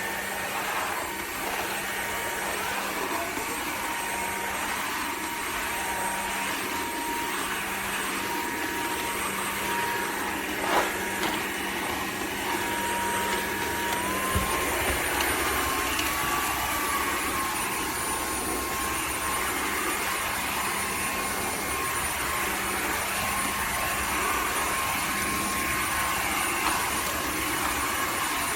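Dreame H12 Pro cordless wet-dry vacuum mop running over a muddy hard floor: a steady motor whine over a constant rushing noise. The pitch steps up slightly about halfway through, and there is one sharp click a little before that.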